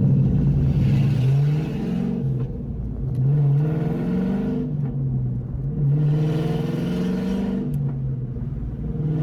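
Ford Mustang's modified exhaust heard from inside the cabin while driving, the engine note climbing three times and dropping back between, as when accelerating through the gears. The tone is deep rather than raspy.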